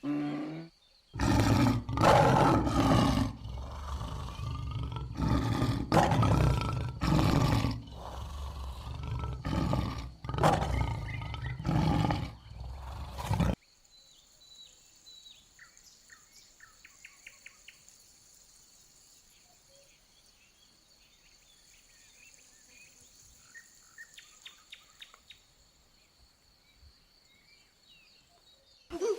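Lion roaring, a string of loud, deep calls about a second apart that stop abruptly about halfway through. Then faint scattered chirps over a steady high-pitched drone.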